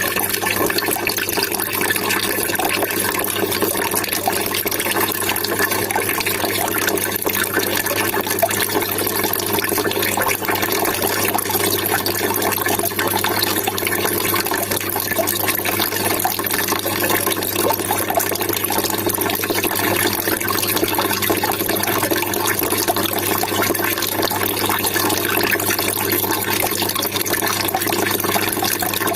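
Running water trickling and splashing steadily, an even rushing sound that doesn't change.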